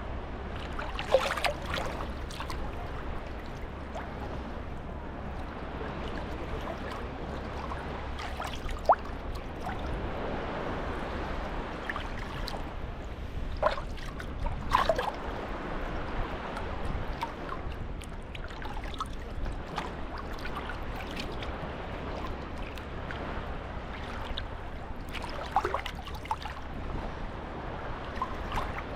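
Small sea waves lapping at the shoreline, a steady wash broken by scattered short splashes.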